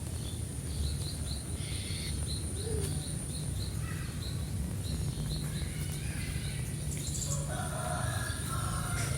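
Small wild birds chirping in quick, repeated short notes, over a steady high insect drone and low wind rumble. A rooster crows near the end.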